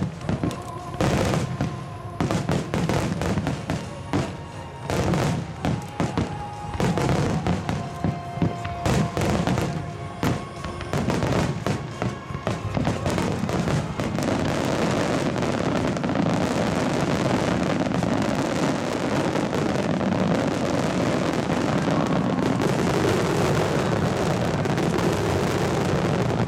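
Large fireworks shells bursting in quick succession with sharp booms, with music playing along. From about halfway in, the bursts merge into a dense, unbroken crackle of many small bursts.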